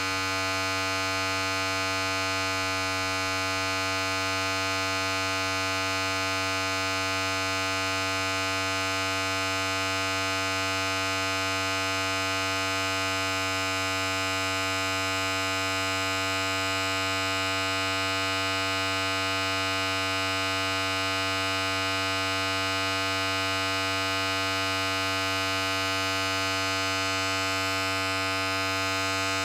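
Electric hair clipper running continuously: a steady, unchanging buzz with a low hum and many overtones.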